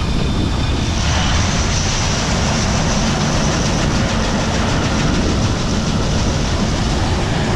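Gleaner L2 combine harvester running steadily under load, with a brighter rushing sound joining about a second in.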